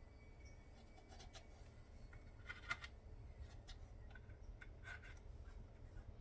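Faint scratching and small clicks of a toothpick being worked into the spray holes of a dishwasher spray arm, clearing them of clogs. The sharpest click comes a little under three seconds in.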